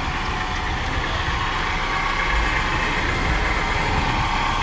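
2005 BMW X5 engine idling with a steady noise from the A/C compressor's worn clutch pulley bearing, the A/C switched off and the compressor clutch not engaged.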